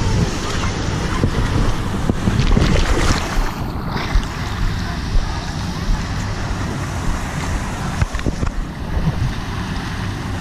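Water sloshing and splashing, with wind rumbling on the microphone.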